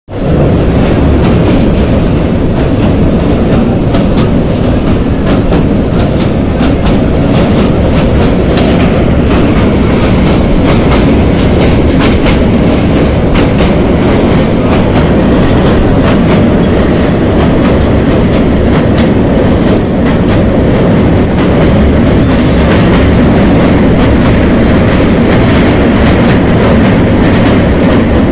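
Train running across a steel truss railway bridge, heard from aboard: a loud, steady rumble of wheels on the rails with a constant rapid clatter of clicks.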